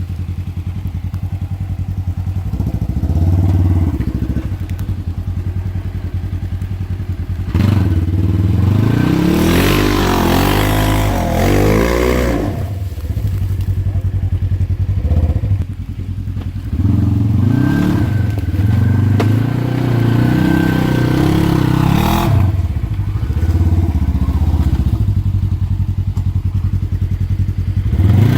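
Polaris RZR side-by-side engine revving hard and easing off several times as it labours up a steep, rough climb, with a few sharp knocks from the machine hitting the ground.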